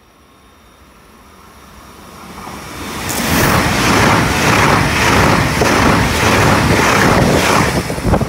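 Italo high-speed electric train passing through the station at speed. It grows louder over about three seconds as it approaches, then becomes a loud, steady rushing with a rhythmic pulsing as the cars go by close up.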